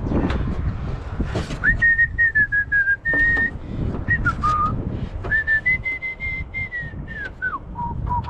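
A person whistling a slow tune in two long phrases of held high notes, each falling to a lower note at its end, over scattered clicks and knocks.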